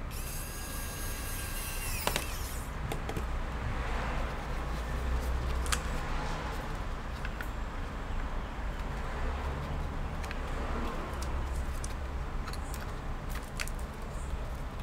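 Handling noise from small laptop parts being worked on by hand: scattered light clicks and taps over a low steady rumble.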